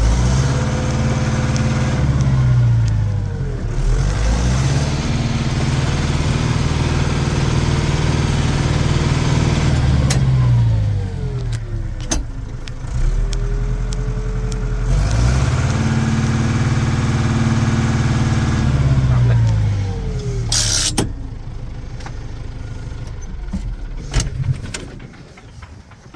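Case 844 XL Plus tractor's diesel engine pulling in reverse, revving up, holding, then falling back twice. A sharp knock comes near the end, and the engine settles to a lower, quieter run.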